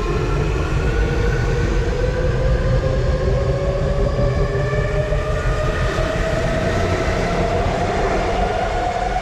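Electric commuter train's traction motors whining as it accelerates, the whine rising slowly and steadily in pitch over a loud low rumble of wheels on rails.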